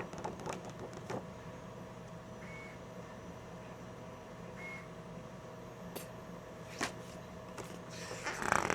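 Scattered clicks and rustles of hands handling packaging and paperwork, loudest near the end, over a steady electrical hum, with two short faint high beeps.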